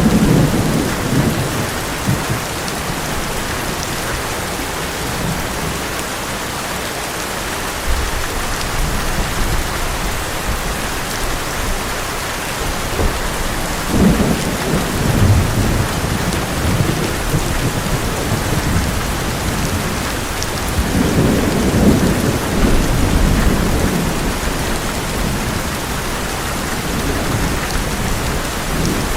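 Heavy rain drumming steadily on an old metal roof, with thunder rumbling several times, strongest at the start, about halfway through and a little over two-thirds of the way in.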